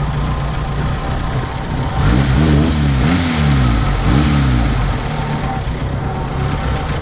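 Off-road vehicle engine running, revved up and down several times in quick succession from about two seconds in, then settling back to a steady run.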